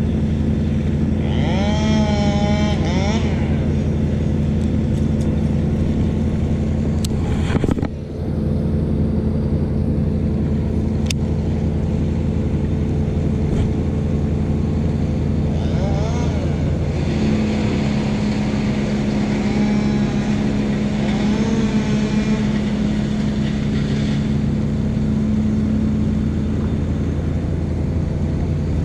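An engine running with a steady, even drone, and a single sharp knock about eight seconds in.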